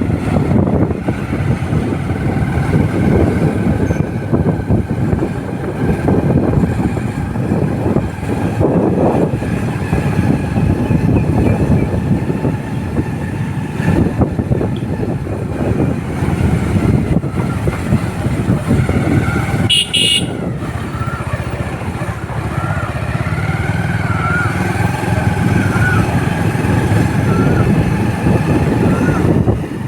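Motorcycle riding along a road: steady engine and road noise with wind on the microphone, and a brief clatter about two-thirds of the way through.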